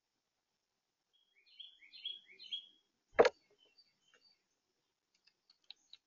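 A bird calling three times in quick succession, each a short note rising in pitch, then a single sharp knock a moment later, the loudest sound, followed by a few faint clicks.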